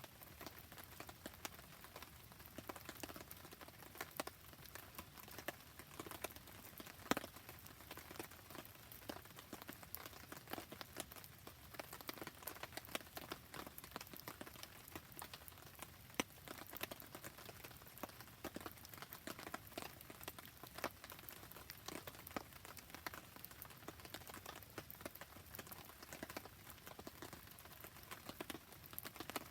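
Rain falling steadily while a wood campfire crackles, with sharp pops scattered throughout and one louder pop about seven seconds in.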